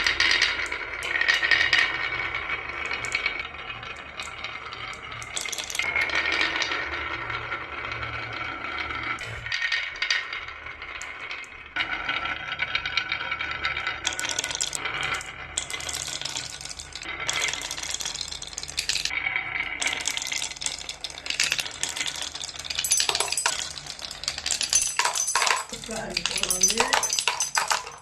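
Glass marbles clattering and clicking against each other and against toy trucks and a wooden track, in many quick rattling hits that grow denser in the second half.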